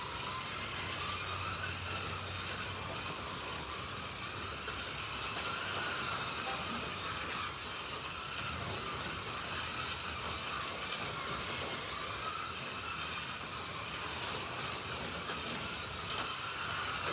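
Several small electric slot-car motors whining around the track, their pitch rising and falling as the drivers work the throttles, with the hiss of the cars running on the rails. The sound starts right at the beginning after a brief silence.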